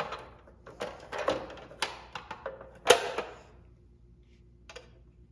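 A run of clicks and knocks from metal parts being handled and fitted onto a belt sander, the loudest a single sharp knock about three seconds in.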